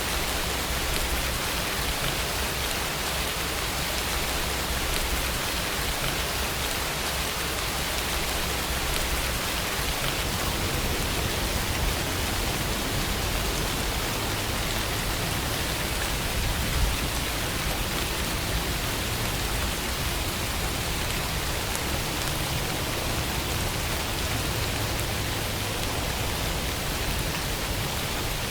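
Steady rainfall ambience: continuous rain falling on surfaces, an even hiss with no speech.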